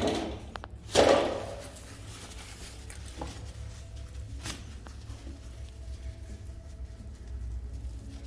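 Handling noises: a short rustle about a second in, then scattered light clicks and clinks of small objects over a low steady hum.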